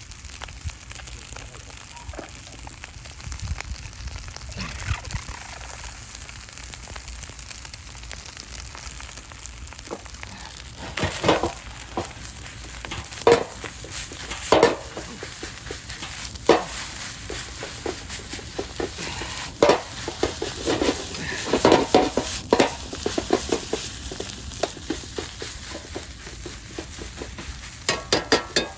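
Fried rice sizzling steadily in a large iron frying pan over a wood fire. From about ten seconds in, a utensil repeatedly knocks and scrapes against the pan as the rice is stirred and tossed.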